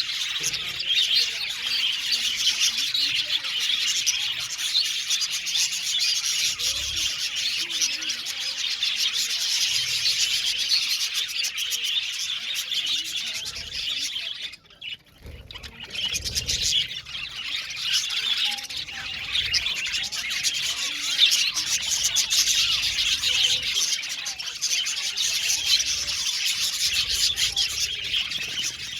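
A flock of budgerigars (budgies) chattering and chirping continuously, many birds at once, with a brief lull about halfway through.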